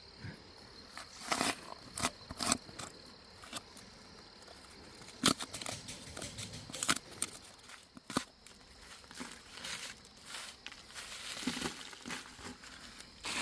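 Irregular sharp clicks and knocks with crinkling rustles, as of hands handling materials, over a faint steady high-pitched tone.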